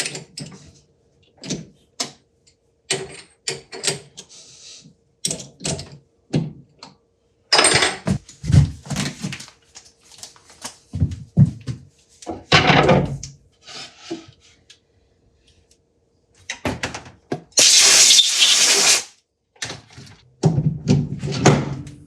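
Metal knocks and clanks of a lathe chuck being handled and changed on a cam-lock spindle, with heavier thuds partway through. Near the end comes a loud rushing noise lasting about a second and a half.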